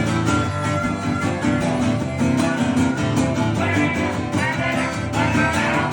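Live acoustic country band playing an instrumental break: strummed guitars and fiddle with a brisk, even strumming rhythm.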